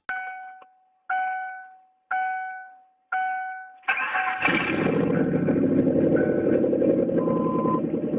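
Four dashboard warning chimes about a second apart, then the 1996 Lincoln Town Car's 4.6 V8, freshly rebuilt with a PI intake, cranks and catches about four seconds in and settles into a steady idle.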